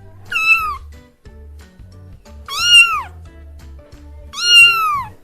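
Domestic cat meowing three times, each meow a short call that rises and then falls in pitch, over soft background music.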